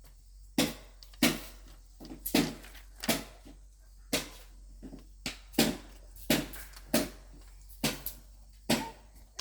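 About a dozen sharp knocks at an uneven pace, roughly one a second, some coming in quick pairs, each with a short ringing tail.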